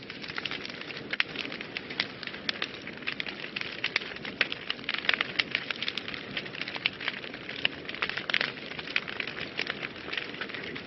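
Wood fire burning in a fireplace, crackling steadily with many small, irregular pops over a low hiss of flame.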